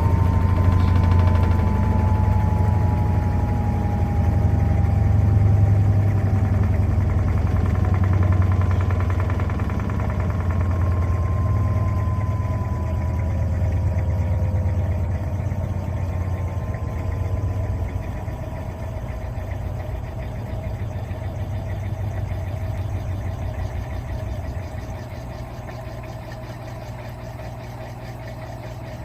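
Electrolux LTA15 washing machine's spin cycle winding down: a low hum with a motor whine that falls slowly in pitch, getting gradually quieter.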